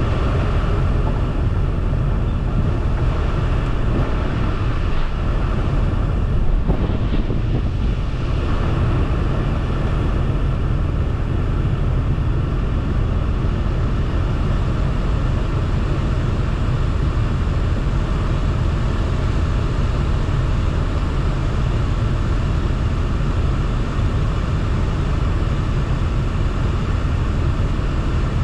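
Strong tornado inflow wind blowing steadily around a car and buffeting the microphone, with one brief thump about six and a half seconds in.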